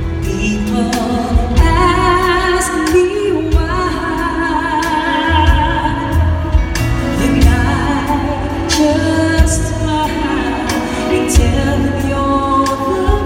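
Live pop ballad: a high vocal sung with vibrato over a band, with drum beats.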